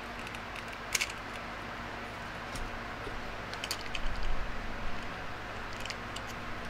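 A few sharp plastic clicks and small knocks as a guide comb is taken off and snapped onto an electric trimmer head, over a low steady background hum.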